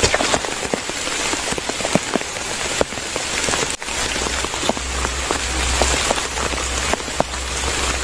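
Rain falling steadily, with many separate drops striking close by. The sound drops out for an instant about four seconds in, and a low rumble runs underneath afterwards.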